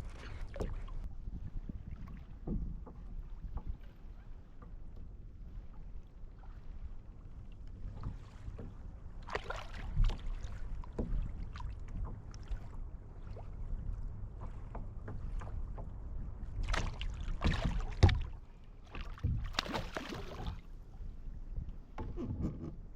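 Water sloshing and splashing against a fishing kayak, with scattered knocks of gear on the hull over a steady low rumble of wind on the microphone. The louder splashes come at about a third of the way through and again twice near the end.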